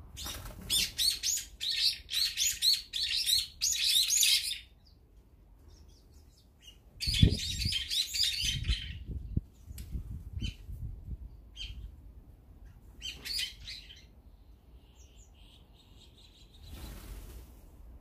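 Small songbirds chirping in fast, repeated runs: a long loud run in the first four seconds, another about seven seconds in, and a short one about thirteen seconds in. A low thump comes about seven seconds in.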